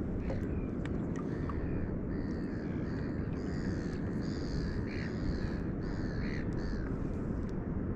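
A bird calling, a run of about six repeated drawn-out calls from about two seconds in until near the end, over a steady low rumble.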